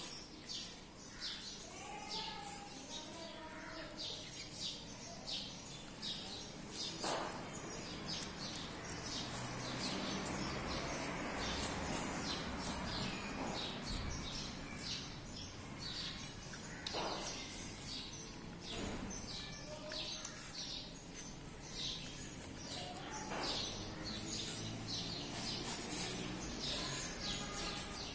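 Birds chirping over and over throughout, with a few short sharp knocks scattered through it.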